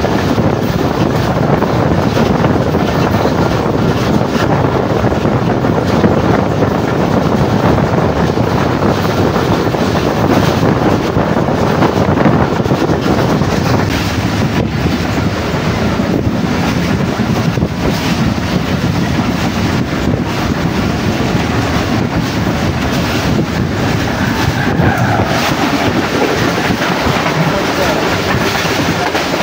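Passenger express train running steadily along the line, heard from aboard: a continuous loud rumble of wheels on rail, mixed with wind rushing past the microphone.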